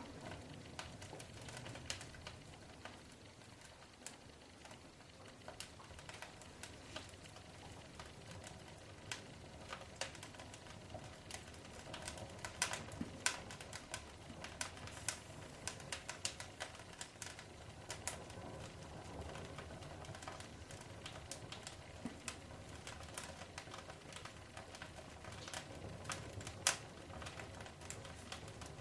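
Fire crackling in a fireplace: irregular sharp pops and snaps over a low, steady hiss, coming more thickly in the second half.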